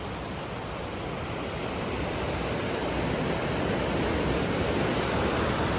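Rushing water at the Falls of Falloch waterfall: a steady, dense noise of falling and churning water that grows gradually louder.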